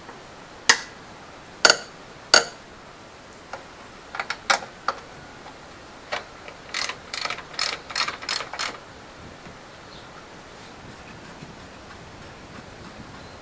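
Hand-tool ratchet clicking in short runs, with three separate sharp metallic clicks in the first few seconds.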